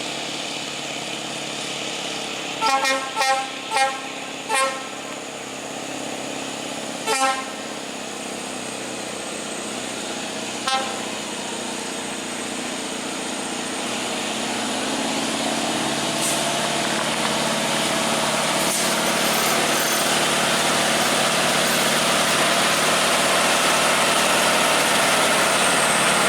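A vehicle horn tooting in a quick series of four short blasts, then one more and a fainter last one, over steady traffic noise. The engine and tyre noise swells from about halfway through as a vehicle draws near.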